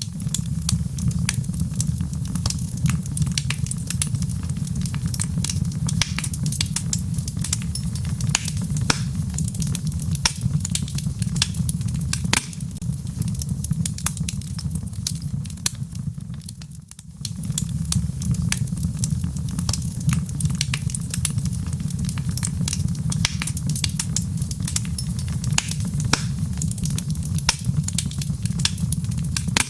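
Log fire burning in a fireplace: a steady low rumble of flames with frequent sharp crackles and pops from the burning wood, dipping briefly about halfway through.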